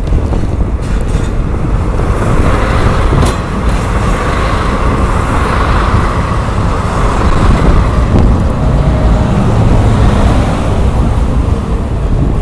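Hokutosei sleeper train running into the station, a loud steady rumble from the train, with wind noise on the microphone in the blizzard.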